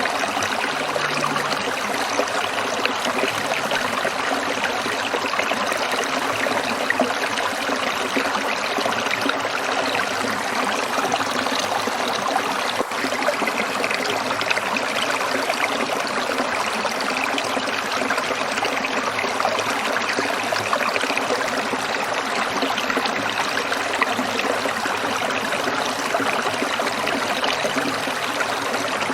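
Stream water trickling and splashing over stones, a steady even rush.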